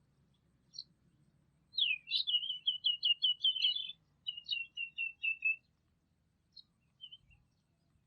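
A songbird sings a fast run of about eight repeated, sharply falling notes, then after a short gap a quicker series of shorter, lower notes. A few single high chips sound before and after the song.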